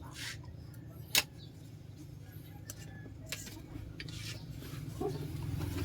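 Small metallic clicks and clinks, with one sharp click about a second in, over a steady low hum.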